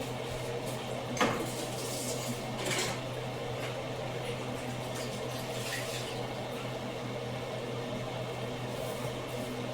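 A steady low hum, with a sharp knock about a second in and brief clattering, like pots or dishes being handled, around two to three seconds in.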